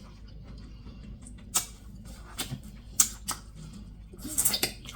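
Close-up mouth chewing with wet lip smacks: single sharp smacks about a second and a half in and around three seconds, then a quick run of them near the end.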